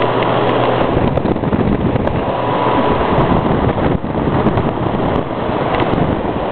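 A 1950s Knapp-Monarch two-speed air circulator (table fan) running, its blades driving a loud, steady rush of air against the microphone. It has just been switched to high, but it runs at about the same speed as on low: the owner thinks the speed switch is probably broken.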